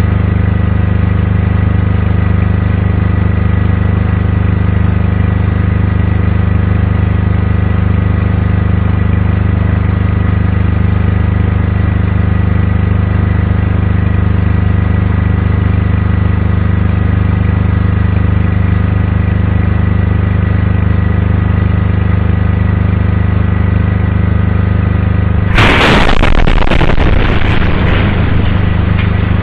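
A steady, loud low hum with several constant tones, broken about 25 seconds in by a sudden blast whose crackling hiss dies away over about three seconds.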